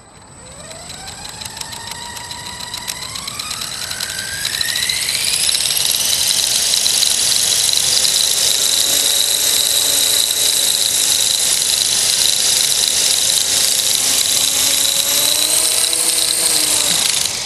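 Accurate 400 RC helicopter spooling up, its whine rising over the first five seconds, then running steadily at hover speed with a high whine and a wavering lower drone, until the throttle drops just before the end. This is the abnormal noise and vibration it makes after a crash.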